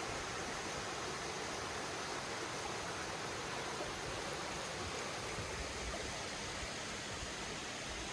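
A mountain stream running: a steady, even rush of flowing water.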